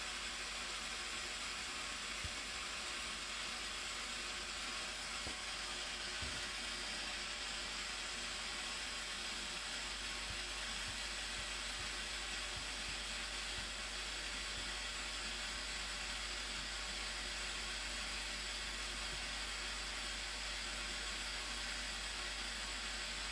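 Steady rushing of falling water from the Blue Nile Falls: an even, unbroken hiss with no changes.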